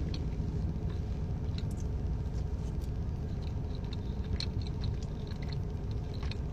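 Quiet chewing with scattered small wet mouth clicks over a steady low car-interior hum.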